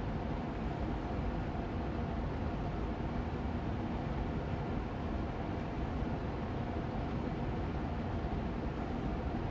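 Air purifier fan running steadily on medium speed: an even, low whooshing hum with a faint steady tone in it.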